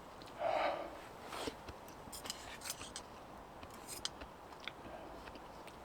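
Small handling sounds: a brief louder scrape or rustle about half a second in, then scattered light clicks and ticks, like objects or a tool being handled.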